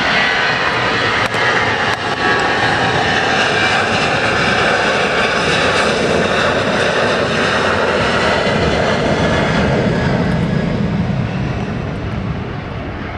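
Jet engine roar of a Boeing 737-800 at takeoff power, its twin CFM56-7B turbofans on the takeoff run. The roar drops lower in pitch and begins to fade near the end.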